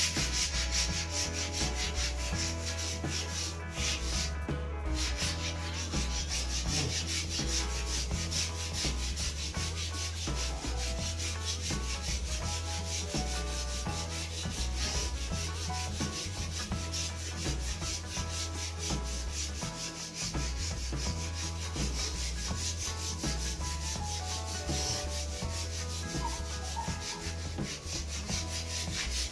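Sandpaper rubbing steadily and without a break along a new wooden snooker cue shaft.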